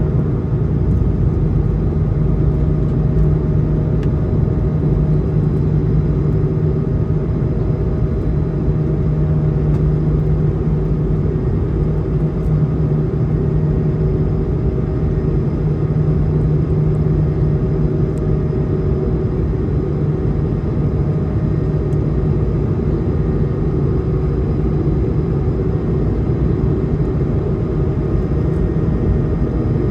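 Cabin noise of an Airbus A220 in flight: a steady rumble of its Pratt & Whitney geared turbofan engines and airflow, with faint steady tones held throughout.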